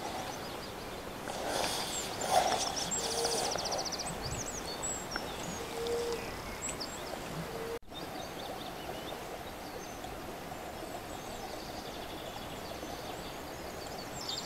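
Several small birds singing and calling over a steady outdoor hiss, including a rapid high trill. The sound drops out for an instant about eight seconds in.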